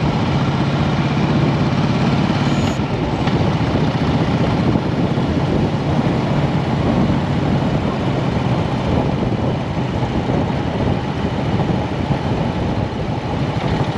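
Motorcycle engine running steadily under a constant rush of wind noise, as heard while riding.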